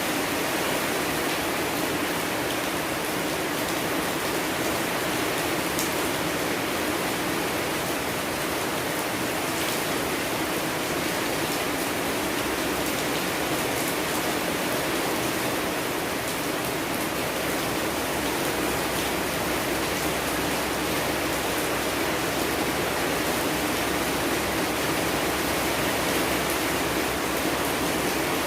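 Steady rain falling: an even, unbroken hiss with a few faint sharp drop ticks.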